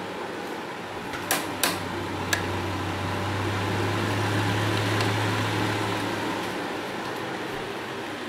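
Electric fan of a homemade air cooler running with a steady whoosh. Three sharp clicks come between one and two and a half seconds in, then a low motor hum swells and fades away over several seconds.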